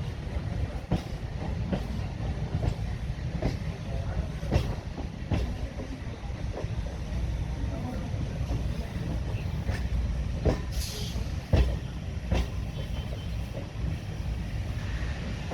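Train running on the track: a steady low rumble with the clickety-clack of wheels passing over rail joints, and a brief hiss about eleven seconds in.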